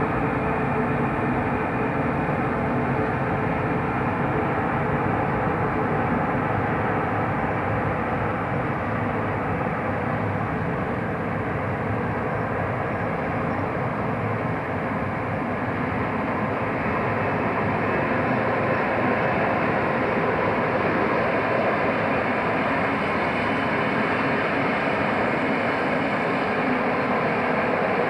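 A train running, a steady noise with no clear rhythm or sudden events.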